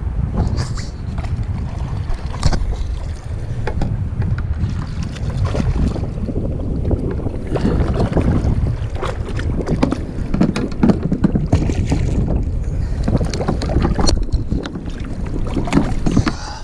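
Wind buffeting the microphone with a steady low rumble, over water splashing and slapping around a kayak, with scattered knocks and clicks from handling on board.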